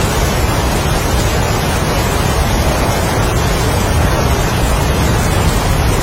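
Heavy rain and strong wind, a steady, dense rushing noise with a deep low rumble and no breaks.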